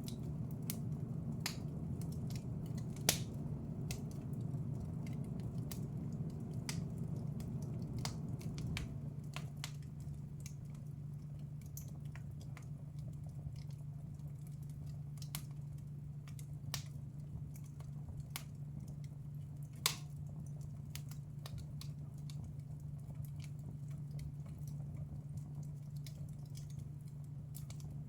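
Wood fire crackling in a fireplace: irregular sharp pops and snaps, with louder pops about 3 seconds in and about 20 seconds in, over a steady low hum.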